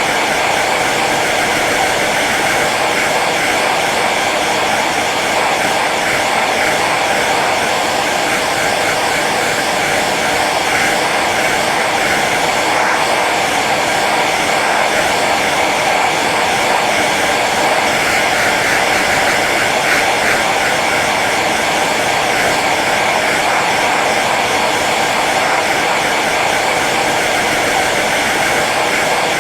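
Hair dryer running steadily on its low setting, an even whooshing rush of air with a motor hum underneath.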